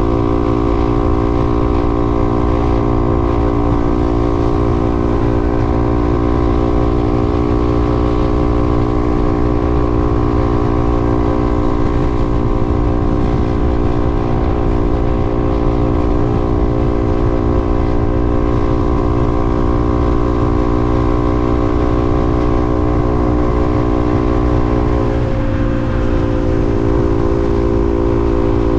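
A vehicle cruising steadily on the highway: a loud, even drone of several held tones over a low rumble, wavering briefly about 25 seconds in.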